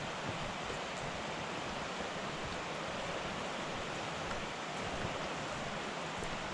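Steady rushing of a river running high after heavy rain.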